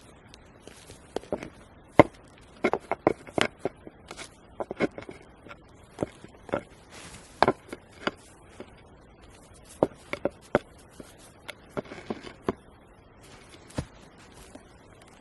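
Irregular sharp knocks, clicks and scrapes of hands-on camp work. The loudest knock comes about two seconds in, and quicker clusters follow around three and ten seconds in.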